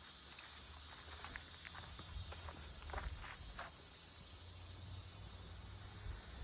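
Cicadas calling in a steady, high-pitched chorus, with a few faint clicks.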